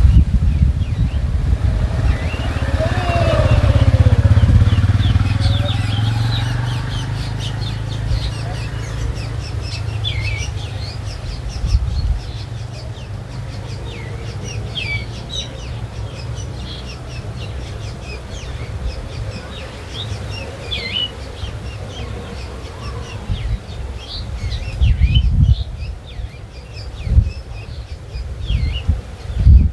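Small birds chirping in short repeated calls, while a motor vehicle's engine rumbles past with a falling pitch, loudest a few seconds in. Low gusts of wind buffet the microphone near the end.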